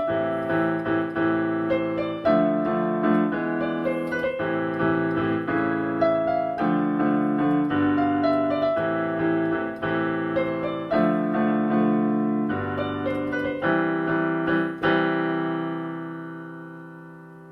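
Solo piano playing the closing bars of a pop-song arrangement. About fifteen seconds in, a final chord is struck and left to ring, fading away.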